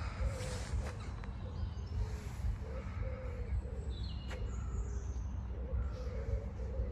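Birds calling in short chirps and brief repeated lower notes, scattered through, over a steady low rumble.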